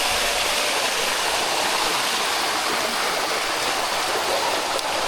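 Water of the Bua Tong sticky waterfall running steadily over its limestone cascades, an even rushing noise.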